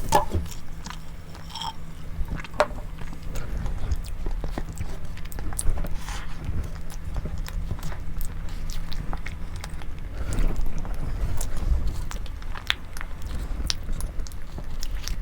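A person biting and chewing food close to the microphone, with scattered small crunches and mouth clicks.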